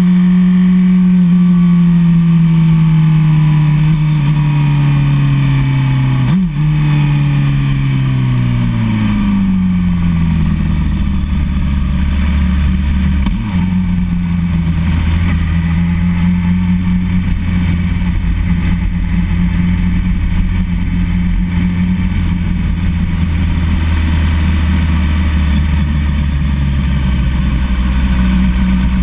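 Sport motorcycle's inline-four engine, revs falling steadily as it slows, with a quick rev blip at a downshift about six seconds in. The revs drop further, and from about ten seconds in the engine holds a steady low note over constant wind noise.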